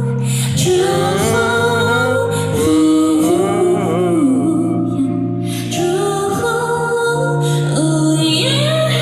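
Music: a woman singing a slow pop ballad, her voice sliding between notes over held low chords.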